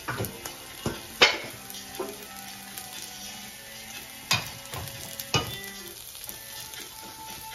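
Red onion and ginger sizzling as they fry in a wok, with several sharp knocks against the pan, the loudest about a second in.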